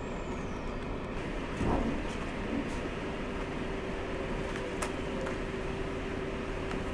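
Train heard from on board, moving slowly: a steady rumble and rattle with occasional clicks. A steady hum comes in about three seconds in.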